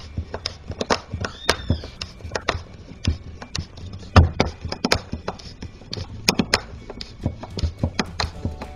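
A wood screw being driven by hand with a screwdriver into a strip of wooden lining board: a run of irregular clicks and creaks as the screwdriver turns the screw, with a few louder ones about four and six seconds in.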